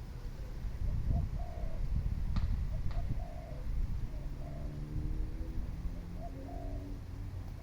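Doves cooing in a repeated series of short, even notes, with a lower, drawn-out cooing joining in about the middle. A steady low rumble sits underneath, and two sharp clicks come about two and a half and three seconds in.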